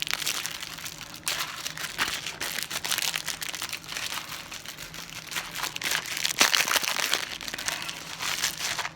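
A bag of microwave popcorn being handled, with continuous irregular crinkling of paper and plastic wrapping.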